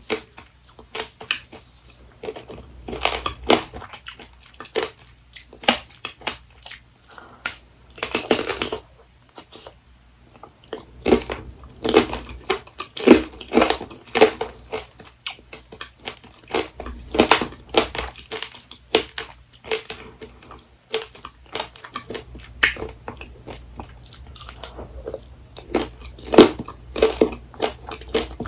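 Close-miked chewing and crunching of apricot tanghulu: the hard candied-sugar shell cracks between the teeth in many sharp, irregular crunches, with a longer crunch about eight seconds in.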